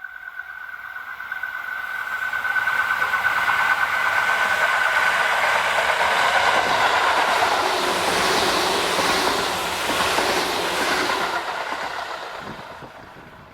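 A Tobu Noda Line electric commuter train passing by, swelling up, running past with wheel clatter on the rails, then fading away. A steady high tone is heard through the first half and dies out as the train goes by.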